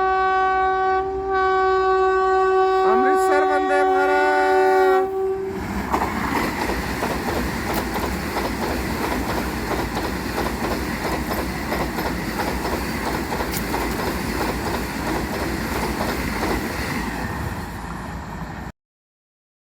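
Vande Bharat Express sounding its horn, a long chord of several steady tones whose pitch bends downward as it nears its end. Then the high-speed train rushes through, a dense rushing noise with fast rail clatter for about thirteen seconds that cuts off suddenly.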